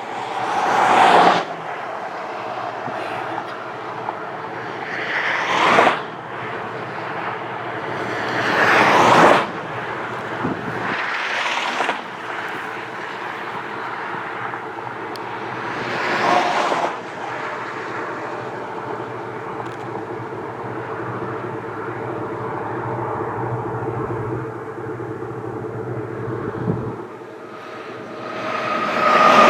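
Vehicles passing one after another, about six whooshes that each build up and cut off quickly, over a steady engine hum.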